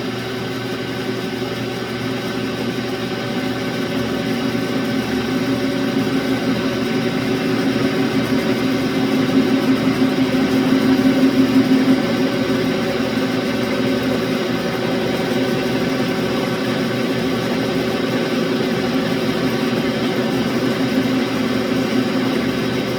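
Metal lathe running steadily while a knurling tool is fed along a steel workpiece. The machine sound grows louder for several seconds in the middle and then eases back.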